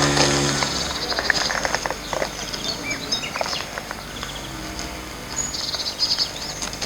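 Outdoor ambience with short bird chirps and a steady high insect drone, broken by scattered clicks. A brief low hum is heard at the very start.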